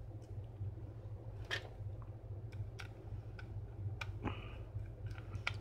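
Scattered light clicks and taps of a Wahl 300 hair clipper's blade being handled and refitted, with a short scrape about four seconds in, over a steady low hum.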